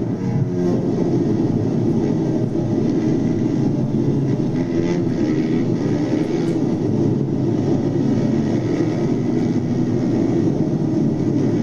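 Steady, loud engine drone that holds an even level throughout.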